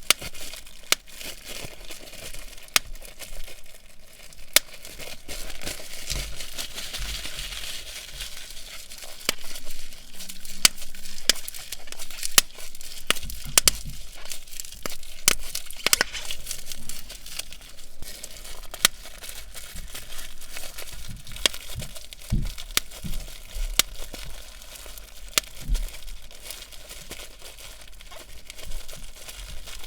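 Plastic bubble wrap being crinkled and handled, with many sharp, irregular pops of individual bubbles bursting.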